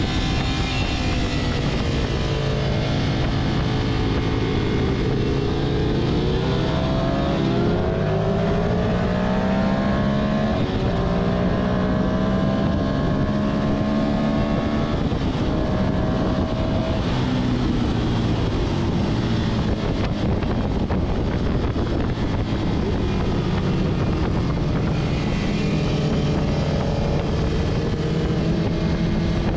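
Ducati Monster 659's L-twin engine at speed, with wind rush over the onboard microphone. It revs up through the gears in long rising sweeps, eases off for a corner past the middle, then pulls hard again near the end.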